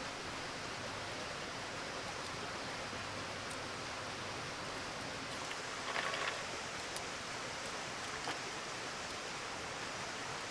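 Campfire burning: a steady hiss with a few faint crackling pops, the most noticeable about six seconds in.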